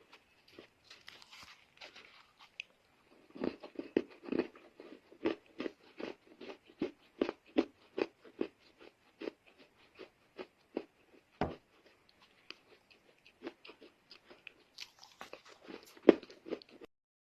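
Dry loess earth being crunched: a run of sharp, separate crumbling crunches, faint at first, then about two a second, with the loudest crunch near the end before it stops.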